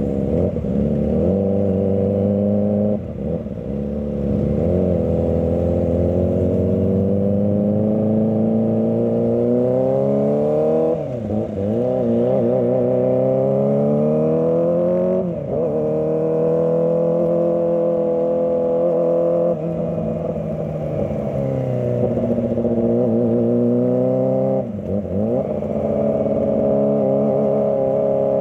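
Kawasaki ZX-25R's 250 cc inline-four engine revving as the bike rides, its pitch climbing in long sweeps and dropping sharply several times as the throttle is rolled off or a gear is changed.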